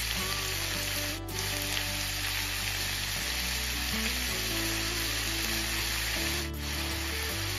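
Prawns and sliced peppers sizzling steadily in a hot frying pan, with light soy sauce just poured in.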